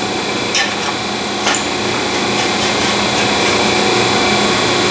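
Steady shop machine noise with a low hum, and two short metallic clicks about half a second and a second and a half in, as a length of steel exhaust tubing is handled.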